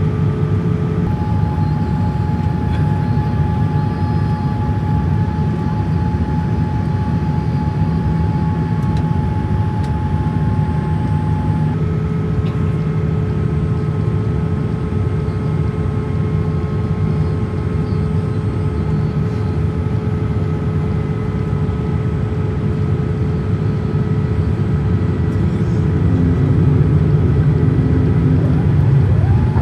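Boeing 787-8 Dreamliner's jet engines and airflow heard inside the cabin: a loud, steady rumble with humming engine tones that change pitch about a second in and again about twelve seconds in. Near the end it gets louder and one tone slides upward.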